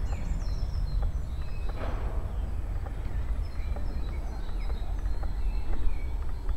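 Small songbirds chirping and singing, short high calls scattered throughout with a quick falling run of notes at the start. Underneath, a steady low rumble of wind and handling noise on the microphone.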